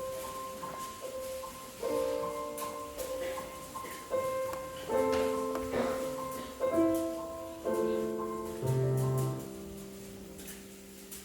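Piano playing slow, sustained chords that change about every second, each struck chord dying away before the next. The music thins out and fades near the end, with faint scattered clicks throughout.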